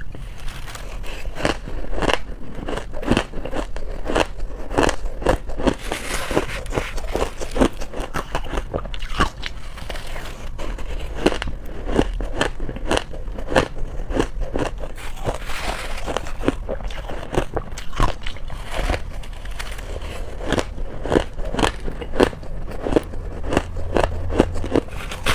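Close-miked bites into soft, chunky freezer-frost ice: a fast run of crisp crunches and crackles, several a second.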